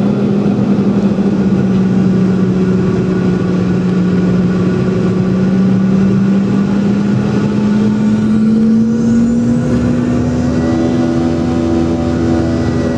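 Boeing 717's rear-mounted BMW Rolls-Royce BR715 turbofan engines heard from inside the cabin: a loud, steady hum whose main tone rises slightly in pitch from about seven seconds in as the engines speed up, with further higher tones joining near the end.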